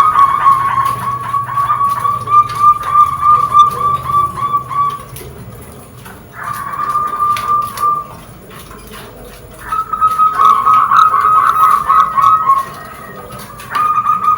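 A bird calling in fast-pulsing trills held on one steady pitch. The first trill lasts about five seconds, followed by shorter trills after brief pauses.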